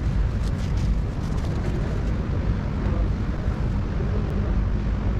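Steady low rumble of vehicle noise, with a faint hum and a few light ticks about half a second in.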